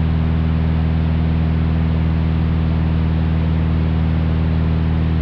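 1956 Cessna 172's piston engine and propeller droning steadily in flight, heard in the cockpit, with a constant pitch and no change in power.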